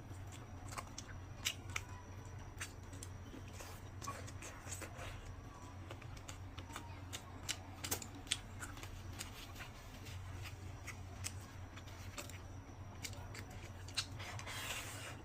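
Close-miked eating sounds: irregular sharp mouth and utensil clicks while someone chews food, over a steady low hum.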